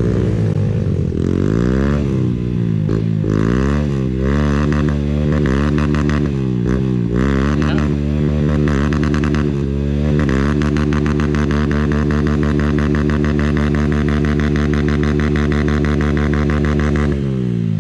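Honda CRF150L's single-cylinder four-stroke engine under load on a muddy trail, the throttle opened and closed over and over so the revs rise and fall, then held steady for several seconds before easing off near the end.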